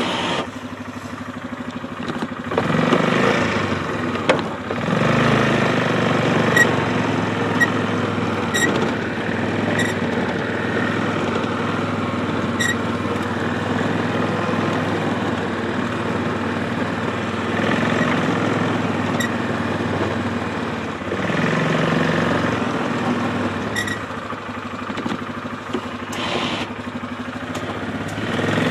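ATV engine running steadily under load while plowing slush, its note swelling louder several times as it is throttled up, with a few faint light ticks.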